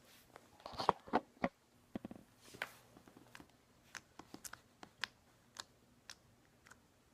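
Slime being poked and stretched by hand, giving irregular sticky clicks and small pops. They come in a quick cluster about a second in, then scattered through the rest.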